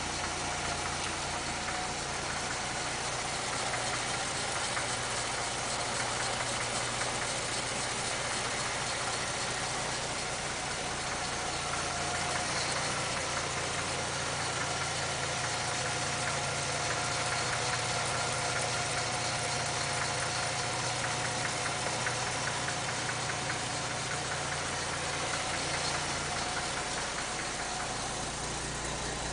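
International Harvester KB-1 truck's unrebuilt Green Diamond 214 ci engine idling steadily, still warming up after a cold start.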